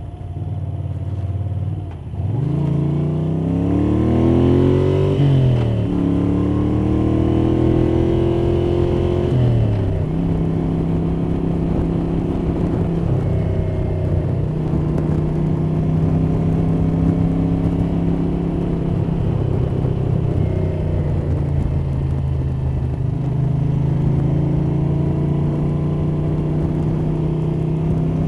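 1982 Moto Guzzi 850 Le Mans III's air-cooled V-twin, fitted with Lafranconi Riservato Competizioni exhausts and K&N cone filters, pulling up through the gears. The revs climb and drop back twice in the first ten seconds, then it settles to a steady cruise. Wind noise and valvetrain noise come through a cloth-wrapped microphone in a jacket pocket, which makes the sound a little muffled.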